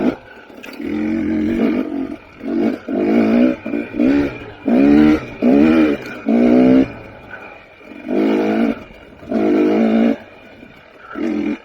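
2021 KTM 300 XC TPI two-stroke dirt bike engine revving in repeated short throttle bursts, the pitch rising in each burst and dropping away in the quieter gaps between.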